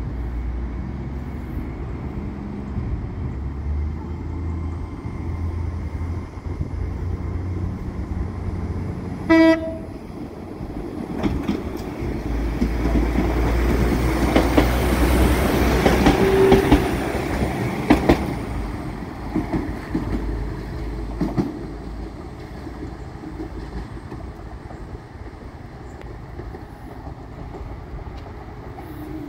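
Diesel trains at a station platform: a low rumble, one short horn toot about nine seconds in, then a train passing close on the adjacent track, its noise swelling to a peak near the middle and fading, with wheels clicking over the rails.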